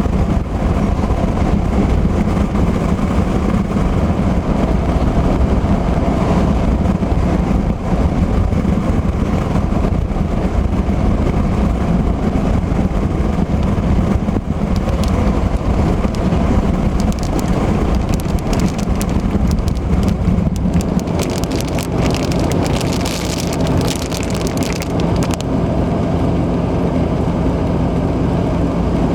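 Car driving on the highway in heavy rain: steady tyre, engine and road noise, with a spell of rain hitting hard on the car, dense fast ticking, for several seconds in the second half.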